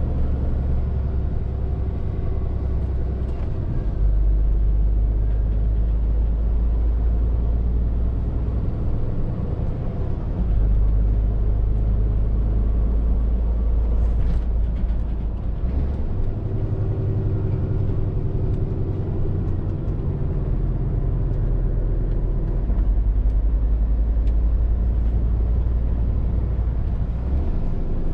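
Scania R450 lorry's 13-litre six-cylinder diesel engine running under way, heard from the cab as a low drone. Its pitch drops and rises in steps every few seconds as engine speed changes.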